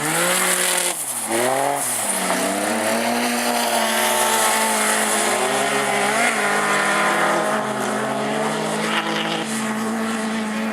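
Autograss racing car engines revving hard, their pitch repeatedly rising under acceleration and dropping as they lift off for the corners, over a steady drone.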